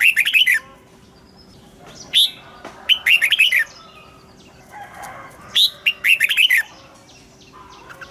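Red-whiskered bulbul singing: short bright phrases about every three seconds, each a high opening note followed by a quick run of warbled notes.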